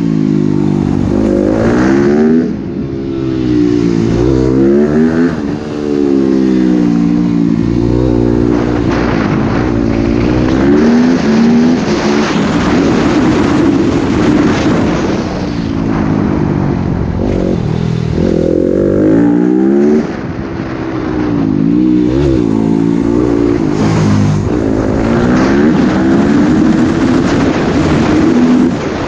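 Motocross bike engine revving hard, its pitch climbing and falling again and again through acceleration and shifts, with brief drops of throttle.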